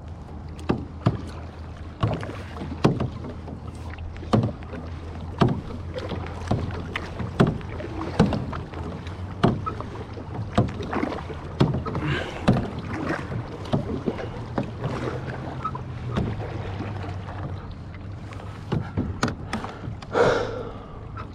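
Kayak paddling: paddle blades dipping and splashing in lake water about once a second, with sharp knocks and clacks, over a steady low rumble. A louder, longer splash or swirl comes near the end.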